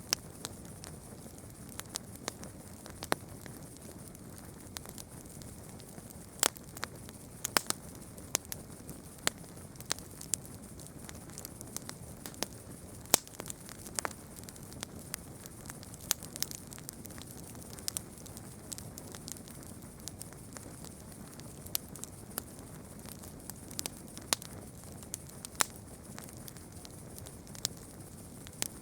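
Campfire burning, crackling with many irregular sharp pops and snaps over the soft, steady rush of the flames.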